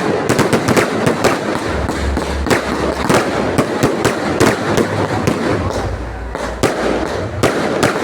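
Fireworks going off: a dense run of rapid bangs and crackles, many per second, over a continuous rumble.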